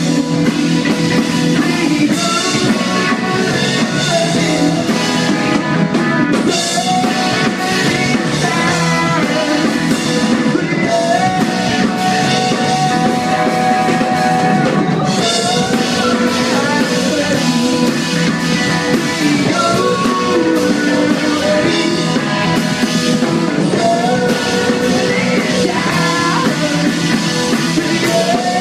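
Live rock band playing a song at full volume: electric guitars, bass and drum kit, without a break.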